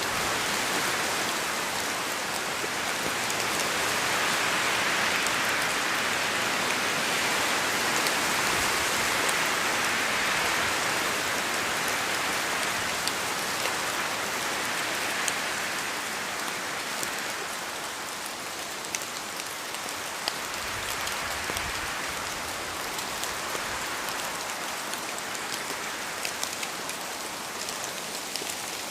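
Steady rain falling, a dense even hiss with scattered sharper drops; it swells a little in the first half and eases slightly later on.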